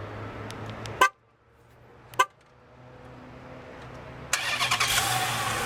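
Two short car-horn chirps about a second apart as the remote start is triggered, then, about four seconds in, the 2012 Chrysler 300C SRT-8's 6.4-litre 392 Hemi V8 suddenly fires up and runs loudly.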